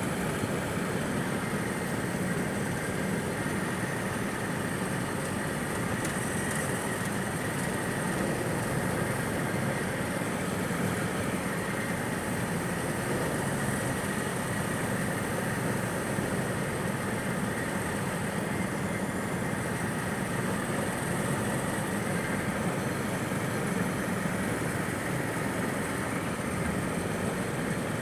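Go-kart engines running in a steady, even drone, with no clear revving up or down.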